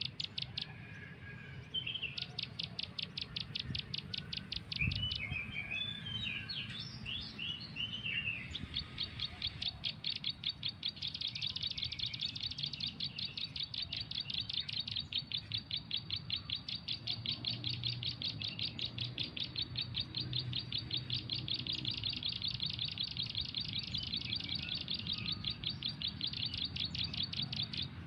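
High, rapid bird chirping repeated at a very even pace, a bird call played as a lure from a phone's MP3 player. Between about 5 and 8 seconds in, a few irregular chirps and trills break the even run.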